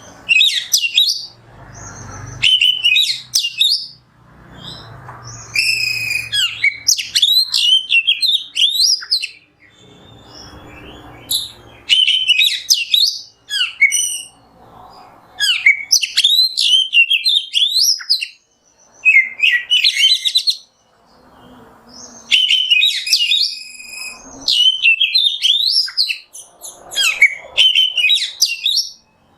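Oriental magpie-robin (kacer) singing: repeated bursts of rapid, varied whistles and chirps, each a second or few long with short pauses between, over a low background noise in places.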